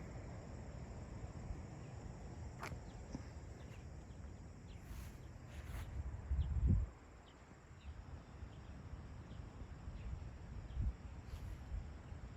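Outdoor woodland ambience: scattered faint short bird chirps over a steady low rumble, with a few light clicks and a louder low thump about six and a half seconds in.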